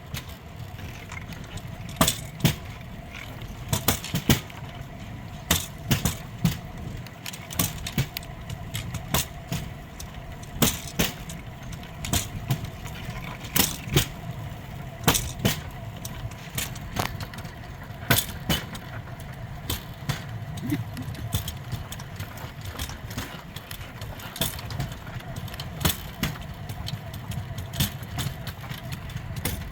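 Steel wheels of a pedal-powered rail bike rolling along old railway track: a steady low rumble and a faint steady tone, broken by irregular sharp clacks about once or twice a second as the wheels pass over rail joints.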